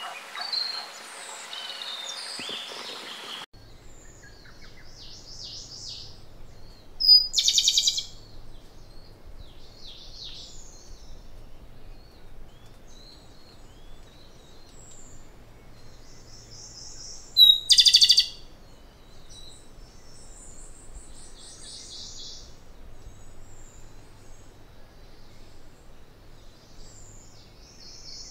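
Japanese robin singing: twice, a short high note followed by a loud, fast rattling trill about a second long, with fainter chirps of other birds in between. In the first few seconds a dense chorus of birds cuts off abruptly.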